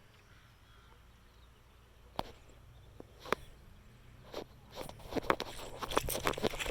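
A few sharp clicks and knocks, about a second apart at first, then coming quicker and louder near the end.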